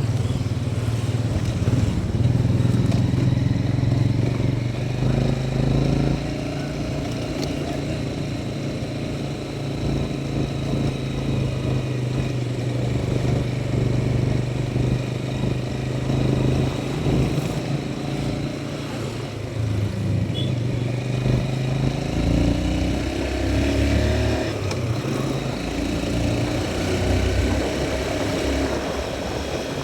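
Motorcycle engine running under way, a steady low hum in the first half that goes lower and more uneven in the second half.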